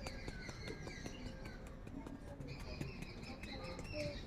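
Birds chirping and calling in many short, high notes, with a few faint soft knocks from a plastic mesh sieve being shaken over a steel bowl as chickpea flour is sifted.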